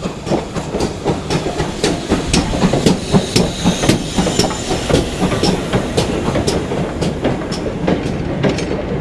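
A goods train running through the station without stopping, its wagon wheels clicking over the rail joints in a steady rhythm over a continuous rumble.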